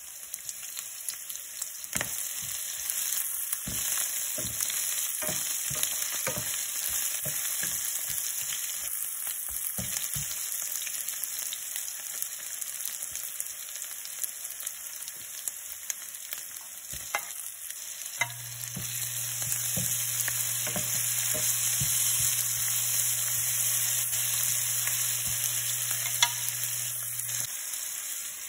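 Onions and ginger-garlic paste sizzling in hot ghee in a stainless steel pan, with irregular taps of a wooden spatula stirring them.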